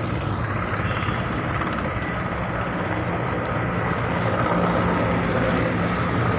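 Helicopter flying overhead: a steady drone of rotor and engine, growing a little louder in the second half.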